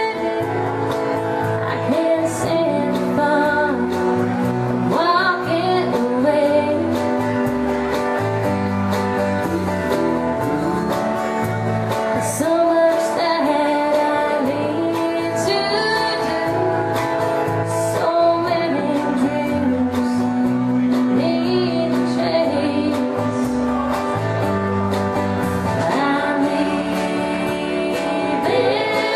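Country band playing a song: a woman sings the lead over guitar and band accompaniment.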